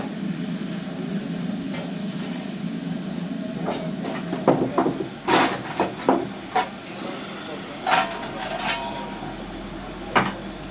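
A steady low hum, then from about four and a half seconds in a run of sharp knocks and clunks, several close together and two more near the end, with voices in the background.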